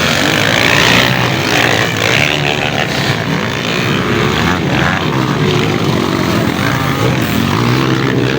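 Several dirt bike engines running at once, their pitch rising and falling as they rev and change speed.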